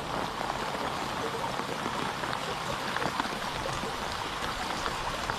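Steady rain falling during a tropical storm, a constant hiss with scattered individual drop ticks.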